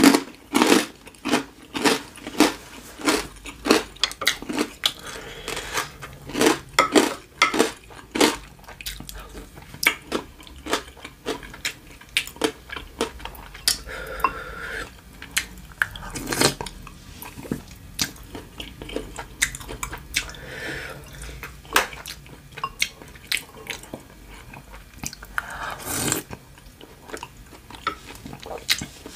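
Close-miked chewing and wet mouth sounds of someone eating, with many quick smacks and clicks that come thick at first and thin out later. Now and then a wooden spoon knocks against a dish.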